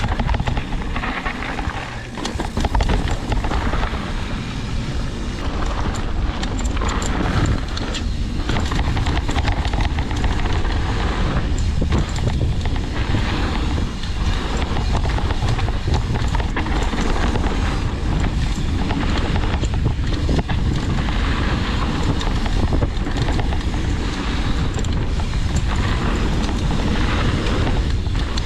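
Mountain bike descending a rough trail: steady tyre noise on dirt and rock with frequent rattling knocks from the bike, and wind buffeting the microphone.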